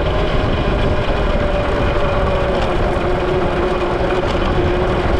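Valtinsu EM-5 electric dirt bike being ridden: a steady electric motor whine that drifts slightly lower, under heavy wind rush and rumble on the microphone.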